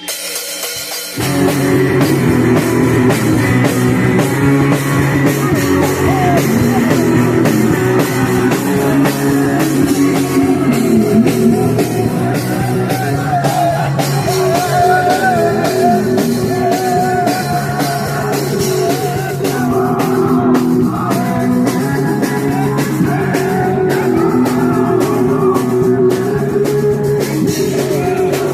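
A punk rock band playing live: drums, bass and electric guitars come in together at full volume about a second in and keep a driving, steady beat.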